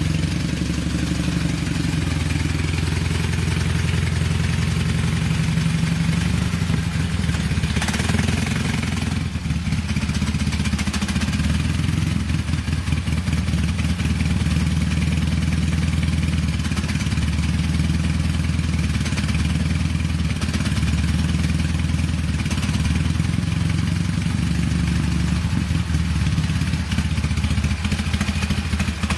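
Dnepr-12 (K-750) sidecar motorcycle's side-valve flat-twin engine running with a steady low note, which briefly changes about eight seconds in.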